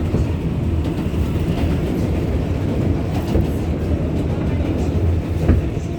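A New York City Subway 7 train running, heard from inside the car: a steady low rumble of wheels on the track, with a few sharp clicks near the end.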